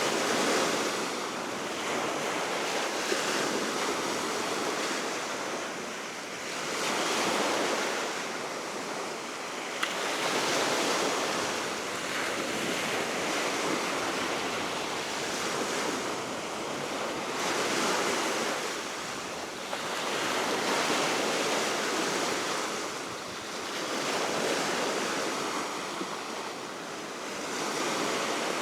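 Baltic Sea waves washing onto the shore, the surf swelling and ebbing about every four seconds, with steady wind blowing over the microphone.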